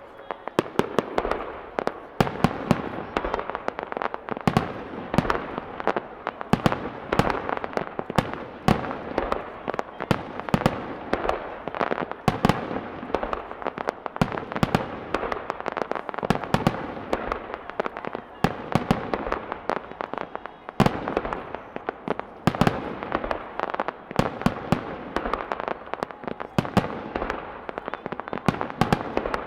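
Fireworks display at close range: a dense, nonstop barrage of shell bursts and launches, many sharp bangs a second over continuous crackling.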